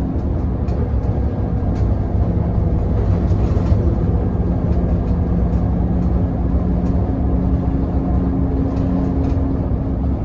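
Scania L94UB bus diesel engine running under way with a steady rumble. The engine note drops about two seconds in and comes back up around the middle, with light rattles throughout.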